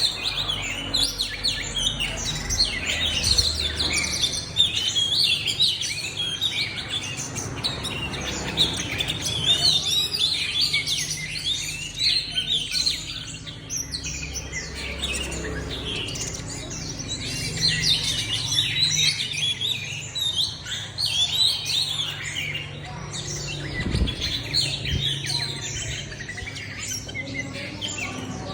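Several small songbirds chirping and twittering continuously, their short calls overlapping throughout.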